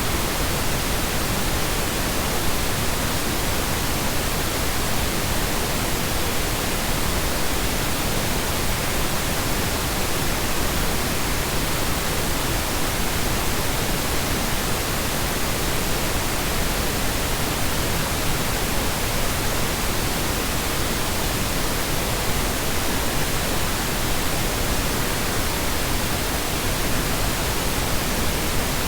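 Steady electronically generated colour noise: a continuous, even hiss with no changes in level or texture.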